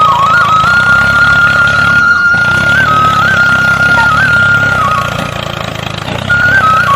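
A simple electronic tune of single held notes stepping up and down in pitch, over a steady low engine-like hum; both drop in level for about a second near the end.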